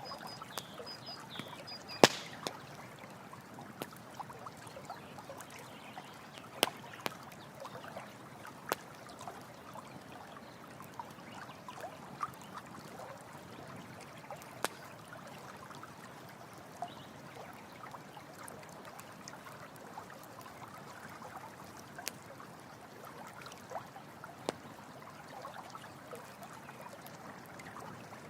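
Running water flowing steadily, with a campfire crackling over it in occasional sharp pops, the loudest about two seconds in.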